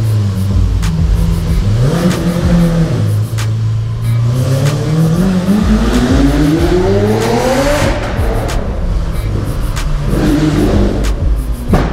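Lamborghini Aventador's V12 engine heard from inside the cabin while driving. The revs blip briefly about two seconds in, climb steadily from about four to eight seconds, then drop away, and rise again briefly near the end.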